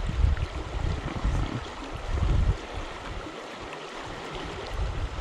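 Swift river water rushing steadily, with a low rumble through the first half that drops away about two and a half seconds in.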